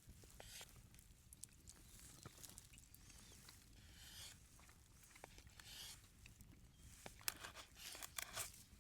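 Faint rustling with scattered light clicks and taps, a little busier near the end.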